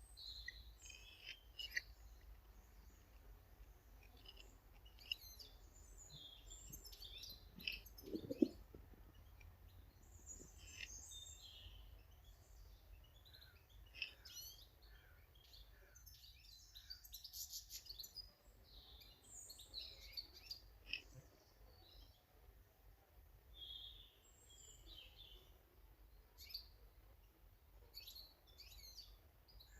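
Faint, scattered chirps and calls of small garden birds, with a soft low thump about eight seconds in.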